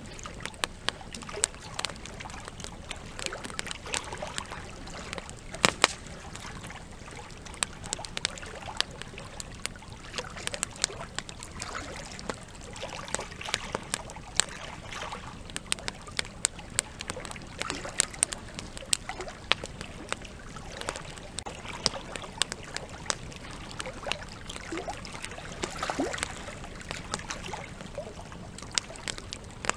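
Campfire crackling, with frequent sharp pops and snaps, over the steady rush of a flowing river.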